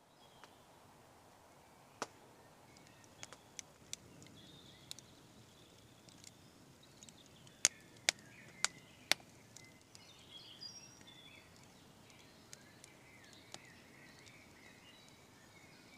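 Faint woodland birdsong over a quiet outdoor background, broken by a scattering of sharp clicks and snaps, four of them loudest in quick succession about halfway through.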